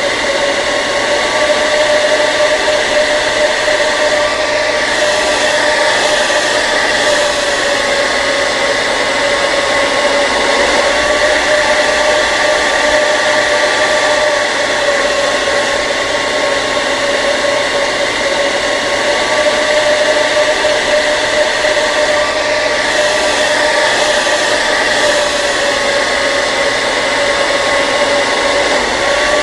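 Hair dryer running steadily: a continuous rush of blown air with a steady whine from the motor.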